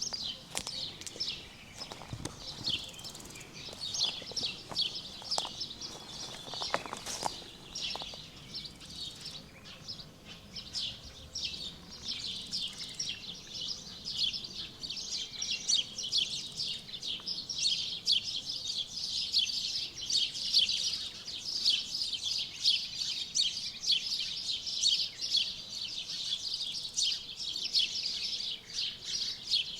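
A dense chorus of songbirds chirping and singing continuously, many short rapid notes overlapping, with a few soft knocks in the first several seconds.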